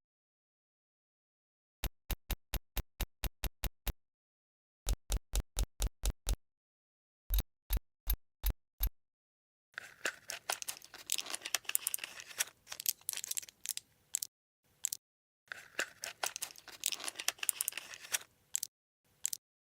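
Three runs of short, evenly spaced pulses from a toy, about four a second, then plastic packaging crinkling and rustling as toy pieces are unwrapped and handled.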